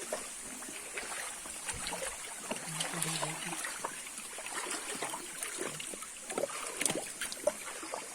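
Footsteps wading through shallow water, with irregular small splashes and knocks over a steady high hiss.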